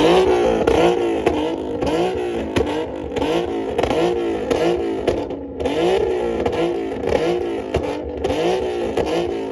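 Car engine being revved over and over in quick blips, each rev rising and falling in pitch about every half second, in a rev battle.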